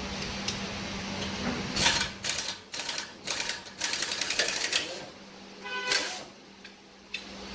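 Several short bursts of rapid mechanical rattling from a mechanic's tools, over a steady low hum.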